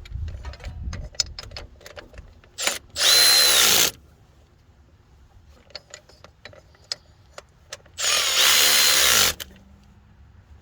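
Milwaukee power ratchet running in two bursts of about a second each, spinning nuts down onto the power steering pump's mounting bolts. Light metallic clicks and clatter of parts and tools come between the bursts.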